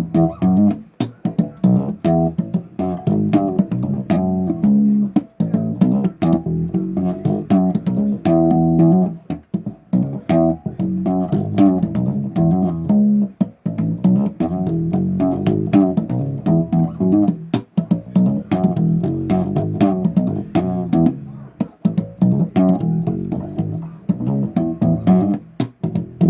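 Bass guitar being played: a continuous run of quick plucked notes and riffs, low in pitch.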